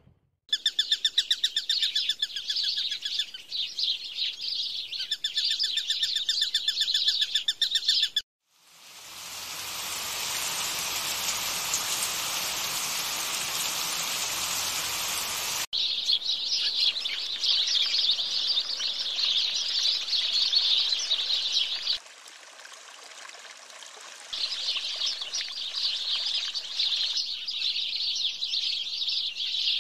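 Birds singing in rapid repeated trills. About eight seconds in they cut out, and a steady rushing hiss runs for about seven seconds before stopping suddenly. Then dense high chirping of birds carries on, dipping quieter for a couple of seconds in the middle.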